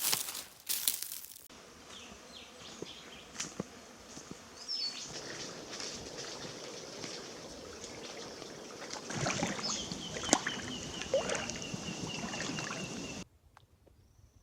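Outdoor nature ambience: crinkling and rustling at the start, then a steady hiss with a few short high chirps and a high, buzzing insect trill near the end, all cutting off suddenly shortly before the end.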